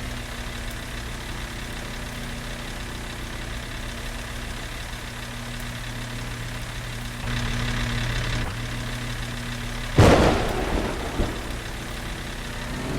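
A truck engine idling steadily, picking up slightly for about a second some seven seconds in. About ten seconds in there is a single loud thump.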